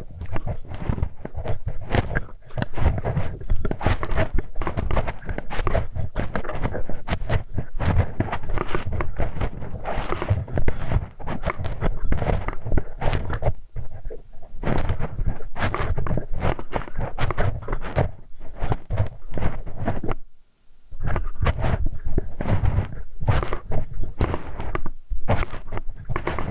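Close-miked ASMR ear-cleaning sounds: a metal hex key scraping, rubbing and clicking against the microphone's ear in a dense, unbroken stream. There is a brief pause about twenty seconds in.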